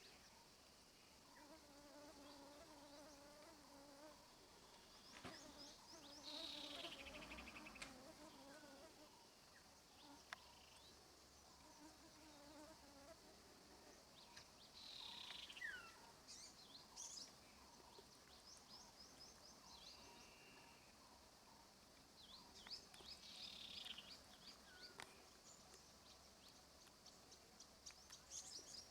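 Quiet outdoor ambience: a faint insect buzz comes and goes, with birds chirping in short rapid trills and an occasional falling whistle.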